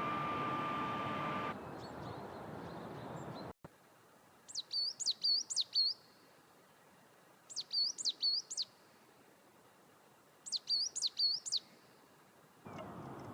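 Coal tit singing three short phrases a few seconds apart, each a quick run of high, repeated two-part notes. Before this there is a stretch of steady background noise with a faint hum, which cuts off suddenly.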